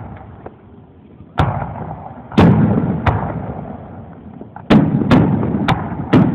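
Aerial firework shells bursting: about seven sharp booms, the first about a second and a half in and the loudest about a second later, then four in quick succession near the end, each trailing off in a long rumbling echo.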